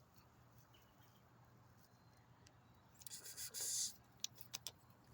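A pit bull puppy tugging on a spring pole: a brief scraping rustle about three seconds in, followed by a few sharp clicks, over a faint steady hum.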